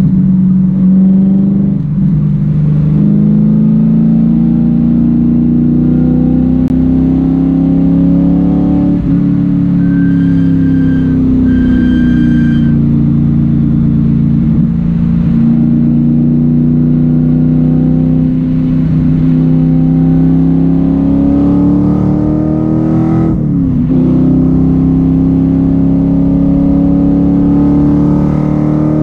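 Factory Five Daytona Coupe's V8 engine pulling hard on track, its pitch climbing and easing with the throttle, with a quick gear change about 23 seconds in.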